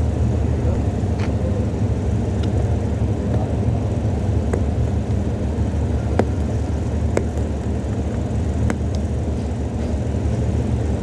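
Steady low rumbling background noise with a few light, scattered clicks.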